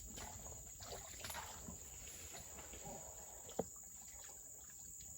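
Forest insects keep up a steady high-pitched chirring, with scattered faint knocks and rustles and one sharp click about three and a half seconds in.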